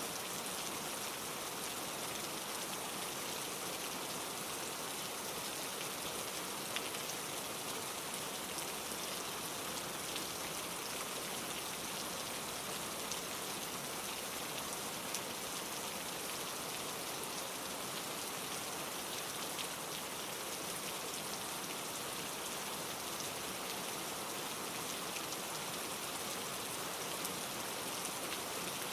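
Steady rain falling, an even hiss with many small drop ticks and now and then a louder single drop.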